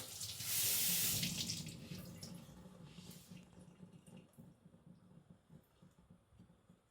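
Wet hissing at a whetstone, water and a steel cleaver working on the wet stone surface. One long hiss comes about half a second in and a shorter one near three seconds, then it dies away to faint small ticks.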